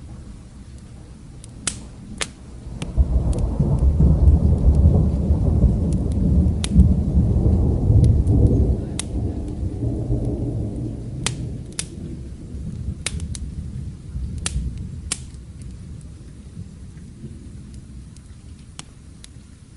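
A low rumble of thunder builds about three seconds in, holds loud for several seconds, then slowly fades away, over steady rain. Sharp crackles and pops from a wood fire are scattered throughout.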